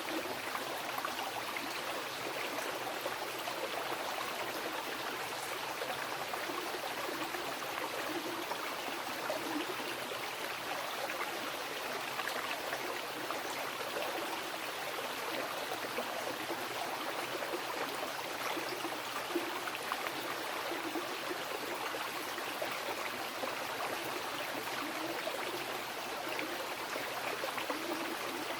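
Mountain river flowing over rocks: a steady rush of water with small gurgles and splashes.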